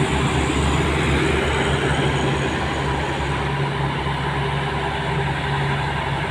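Heavy truck's diesel engine labouring steadily up a steep grade: a low, even drone with road noise.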